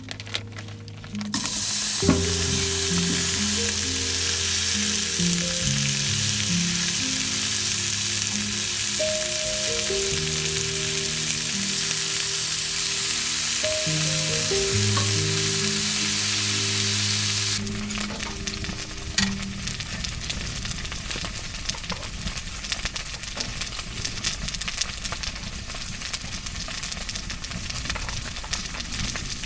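Steak sizzling loudly in a hot pan, with a gentle melody playing over it. A little after halfway the sizzle drops to a quieter, crackling spatter of small pops, and the melody soon ends.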